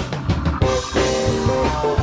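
Rock band playing live, instrumental: drum kit and guitar lead the mix. A quick run of drum hits gives way to held notes about half a second in, with the drums carrying on underneath.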